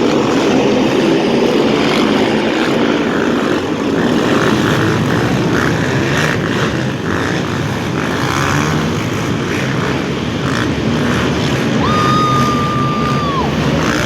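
Several racing quads (ATVs) running together, a dense continuous engine noise. Near the end a steady high tone sounds for about a second and a half.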